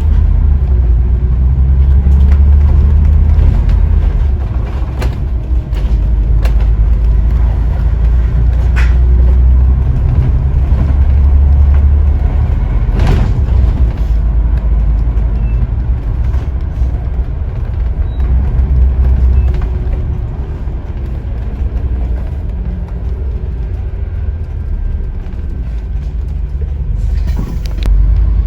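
Interior of a Scania N94UD OmniDekka double-decker bus on the move: a steady deep engine and road rumble, heavier in the first half and easing in the last third, with occasional knocks and rattles from the body.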